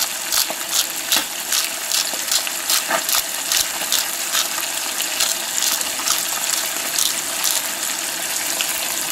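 Pike liver and perch roe frying in hot oil in a skillet: a steady sizzle broken by frequent sharp pops and crackles, the roe spitting in the fat.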